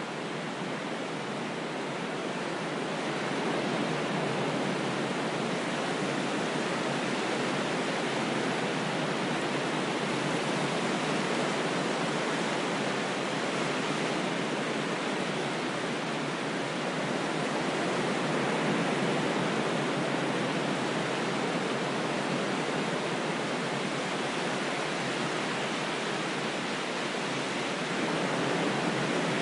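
Ocean waves: a continuous, steady rush of surf that swells gently in loudness now and then.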